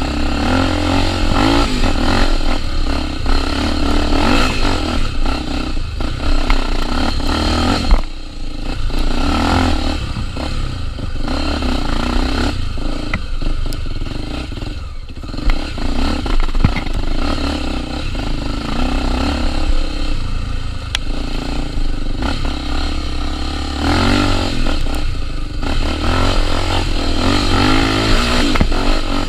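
Trail motorcycle's single-cylinder engine running under load, the throttle opening and closing so the engine note rises and falls, with a couple of brief dips around eight and fifteen seconds in. Scattered knocks and clatter from the bike over rough ground.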